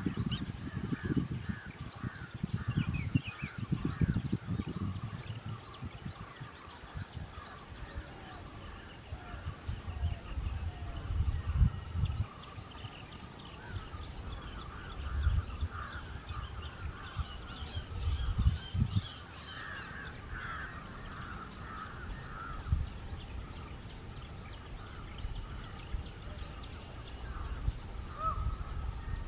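Many birds chirping and calling outdoors, with low rumbling gusts on the microphone, heaviest in the first few seconds.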